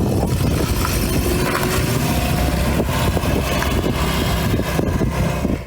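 Škoda 120L's rear-mounted four-cylinder engine running, a steady, loud mechanical noise that cuts off suddenly at the end.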